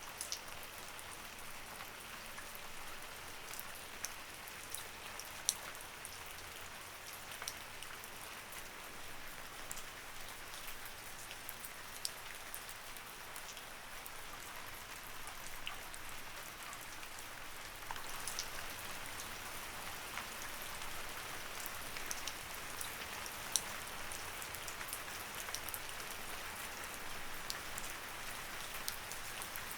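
Light rain falling steadily: an even hiss with scattered individual drops ticking sharply on a surface.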